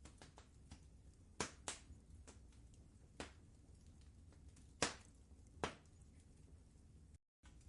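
Wood fire crackling: sharp pops at irregular intervals, the loudest about a second and a half in and near five seconds, over a low steady rumble. The sound drops out briefly near the end.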